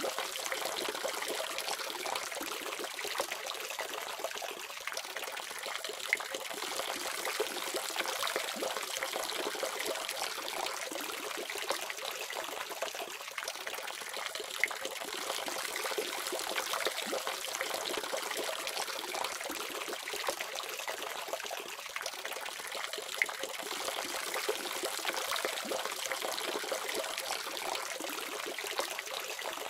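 Water faucet running steadily, a continuous stream splashing with a bright hiss and little bass.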